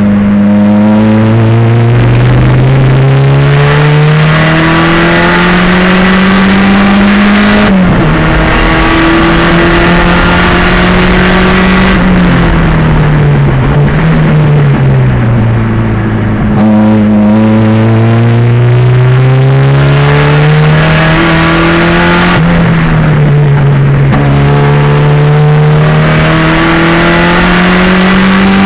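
Turbocharged 2.0 L engine of a 1987 Pontiac Fiero race car, loud under hard acceleration. Its pitch climbs through each gear and drops sharply at upshifts about a quarter of the way in and again about three quarters in. In the middle the revs fall for several seconds, then climb again.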